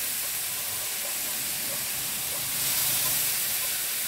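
Mushrooms frying in hot oil in a wok, a steady sizzling hiss that swells slightly about two and a half seconds in.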